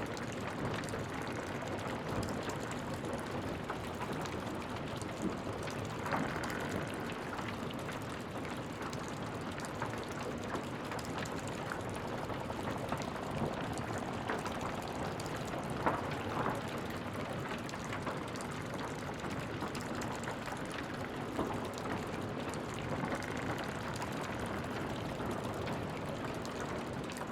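Wood fire crackling in a fireplace: a steady hiss of burning with frequent small crackles and a few louder pops, the loudest about 16 seconds in.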